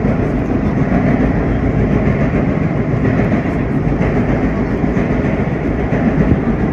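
Vintage R1-9 subway car running at speed, heard from inside the car: a steady, loud rumble of wheels and running gear on the track.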